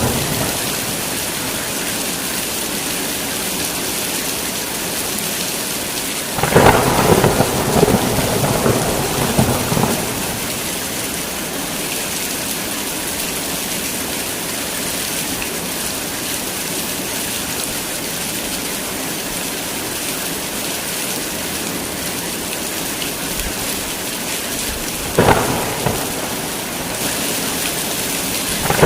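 Heavy rain falling steadily in a thunderstorm, with a thunderclap rumbling for a few seconds about six seconds in and a shorter crack of thunder near the end.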